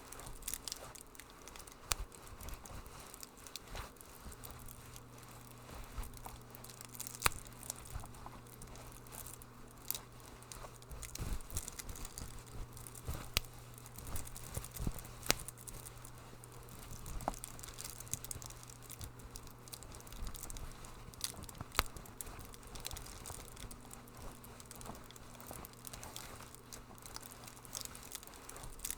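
Wood fire crackling: irregular sharp pops and snaps, some louder than others, over a low steady hum.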